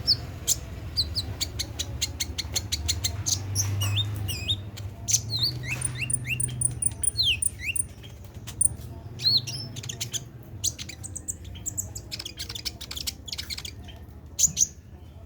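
Kolibri ninja sunbird singing a fast, continuous chattering song of sharp high chirps and quick rising and falling whistles.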